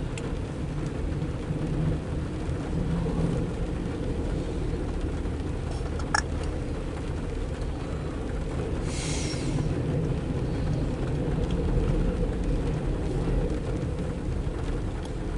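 Diesel freight train running steadily, a low rumble, with a short hiss about nine seconds in.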